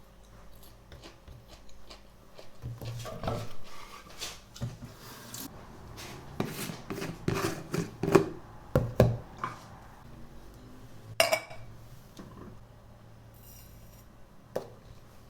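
Dishes and cutlery clinking and knocking as food is handled in a kitchen: a string of separate knocks and scrapes, with a sharp ringing clink about eleven seconds in.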